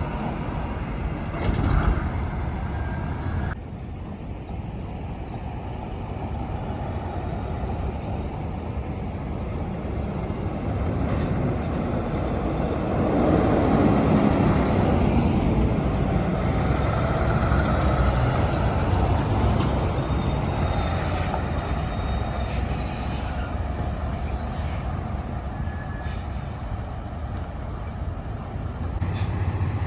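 Heavy trucks passing on a road: engine and tyre noise that swells to its loudest about halfway through as a truck goes by, then fades.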